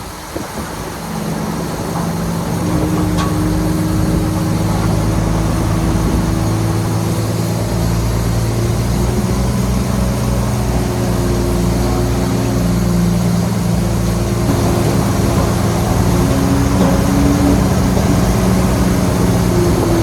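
Heavy diesel engine of earthmoving machinery running steadily under load. It grows louder over the first couple of seconds, then holds a steady hum.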